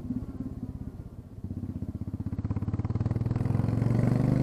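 Royal Enfield Classic 350's single-cylinder engine running with the muffler tip removed, only the header pipe and small catalytic converter left, firing in a pulsing beat. It eases off about a second in, then builds steadily louder.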